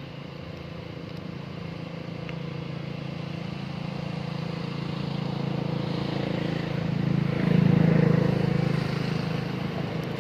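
An engine's steady drone that slowly grows louder, is loudest about eight seconds in, then eases off.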